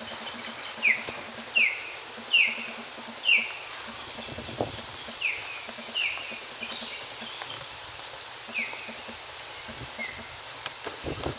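A bird calling repeatedly: short, sharp notes that each slide downward in pitch, about four in quick succession near the start, then a few more spaced out, a second or two apart.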